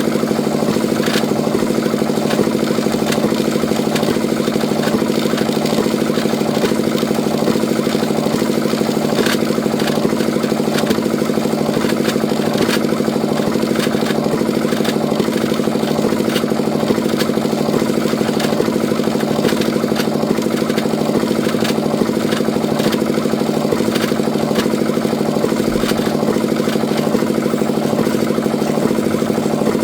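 Small engine of a DIY mini tractor running steadily at an even speed.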